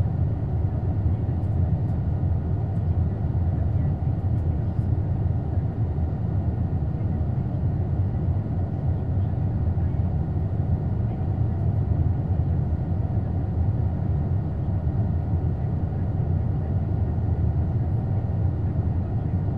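Steady in-flight cabin noise of an Airbus A220 with Pratt & Whitney PW1500G engines: a deep, even rumble of engine and airflow with a few faint steady tones above it.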